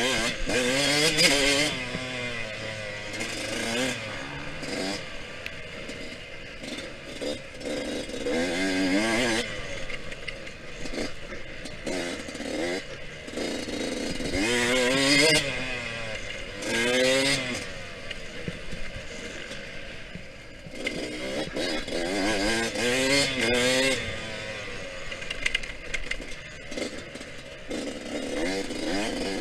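Yamaha YZ125X two-stroke dirt bike engine revving hard and backing off over and over, its pitch climbing with each burst of throttle and dropping between them.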